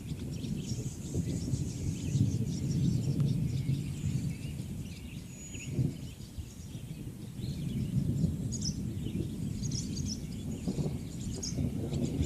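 Thunder rolling in a long, continuous rumble that eases about halfway through and builds again, with birds chirping over it.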